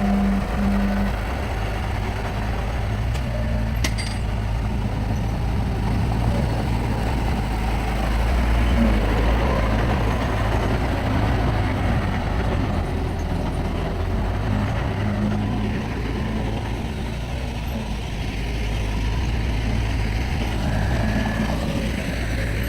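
Heavy diesel engine of earthmoving machinery running steadily with a low rumble, and a short sharp click about four seconds in.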